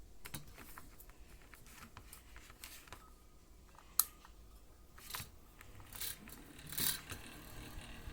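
Mini electric fan being handled: scattered small plastic clicks and rubbing, with one sharp click about four seconds in. Near the end a low steady hum from its small motor sets in.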